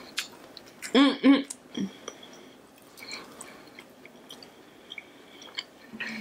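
Close-mic chewing of battered fried food, with small wet mouth clicks. About a second in, a loud two-part closed-mouth hum, 'mm-mm'.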